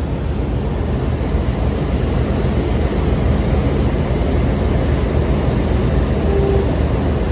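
Diesel-electric locomotive engine, a GE U40, idling with a steady low throb.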